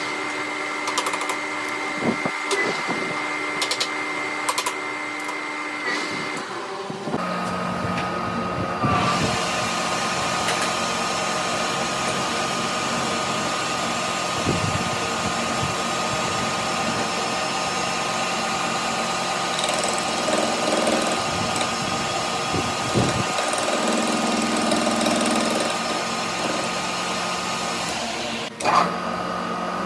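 Electric power tool running steadily with a whine. About seven seconds in, the pitch drops and the sound turns fuller and noisier, and it cuts off near the end.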